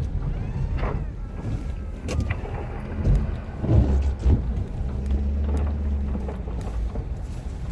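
Ford F-250's 6.7-litre Powerstroke V8 turbodiesel running under load while pushing snow with a plow. A few sharp thumps come in the middle.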